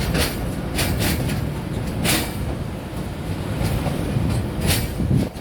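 Train passing over a bridge: a steady low rumble with sharp, irregular clacks as the wheels cross rail joints. The sound drops a little right at the end.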